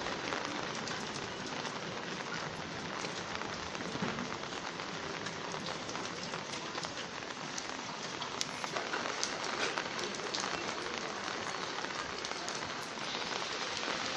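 Steady rain falling on a street, with sharp taps of nearby drops scattered throughout.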